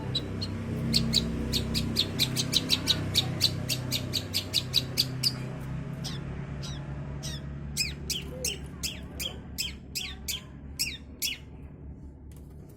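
Young long-tailed shrike (cendet) calling: a fast run of short sharp chirps, about five a second, then a slower series of notes that each drop in pitch.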